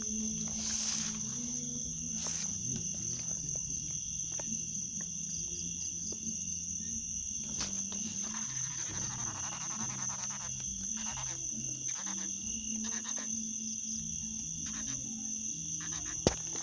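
Night-time insect chorus of crickets: a steady, high-pitched trill that never lets up, over a lower, uneven pulsing chorus. A single sharp click sounds near the end.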